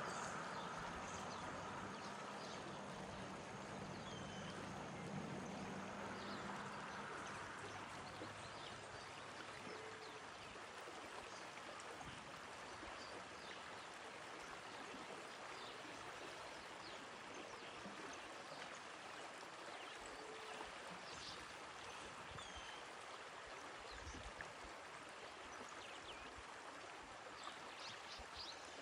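Piracanjuba river water flowing in a steady rush, with faint short high chirps scattered through it and a faint low hum in the first few seconds that fades away.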